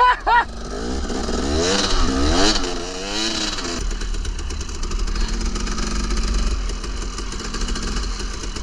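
KTM 300 two-stroke dirt bike engine blipped up and down several times, then settling to a steady idle about four seconds in. Wind rumbles on the microphone underneath.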